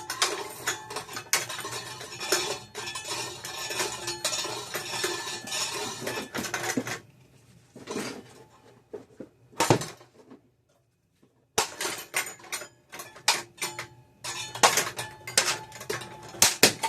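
Ceiling fan being smashed while it is still running: rapid metallic clattering and clanking, in a long dense run, then a few single sharp hits and a short silence, then another dense run of hits.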